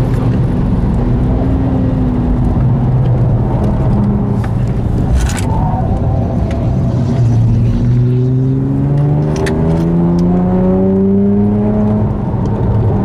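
Tuned twin-turbo straight-six of a Devotec-prepared 477 hp BMW 1M, heard from inside the cabin on track. The revs sag over the first few seconds, with a brief sharp click about five seconds in. From about eight seconds in, the engine note climbs steadily as the car accelerates.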